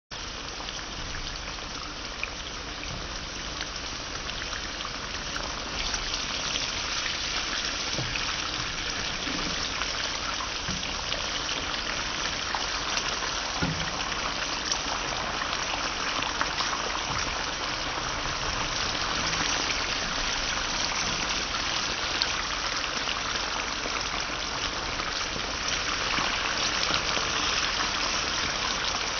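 Okra pieces frying in hot oil in a non-stick pot: a steady sizzle with fine crackling, growing louder about six seconds in, as a wooden spoon stirs them.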